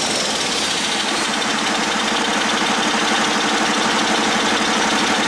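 Detroit Diesel Series 60 12.7-litre inline-six diesel engine idling steadily with an even beat. A faint high whine falls in pitch and fades in the first second.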